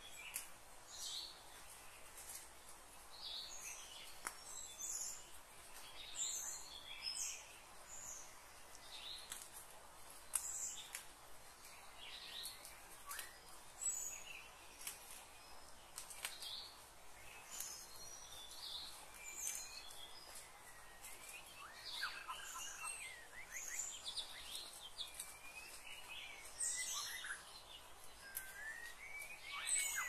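Birds chirping and whistling: short high calls scattered throughout over a faint steady hiss, growing busier near the end with quick sweeping notes.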